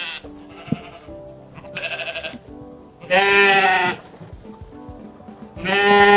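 Farm-animal bleating, three separate calls each under a second long, the last two louder and longer, over steady background music.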